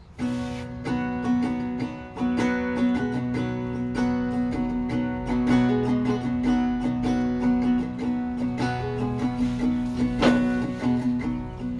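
Acoustic guitar strummed and picked with no singing, starting suddenly and going on in a steady rhythm of chords.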